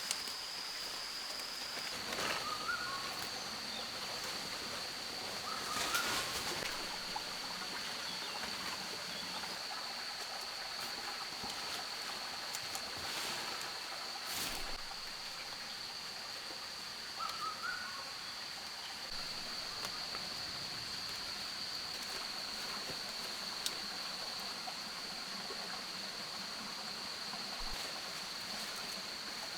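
Rainforest ambience: a steady high-pitched insect drone over a constant rush like running water, with a few short bird chirps and occasional light rustles or clicks.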